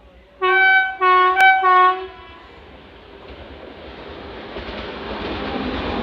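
WAP-7 electric locomotive sounding its horn in three short blasts about half a second in, then the rumble of the approaching train on the rails, growing louder as it nears and runs past.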